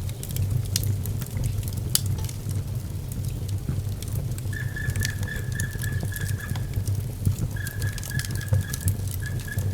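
Wood fire burning in a fireplace: a low steady rumble with scattered crackles and pops. A high, thin whistle sounds from about halfway through, breaks off, and returns near the end.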